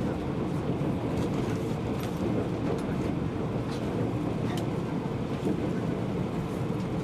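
JNR 485 series electric train running, heard from inside the carriage while it crosses a steel truss bridge: a steady, dense rumble with a few sharp clicks at irregular moments.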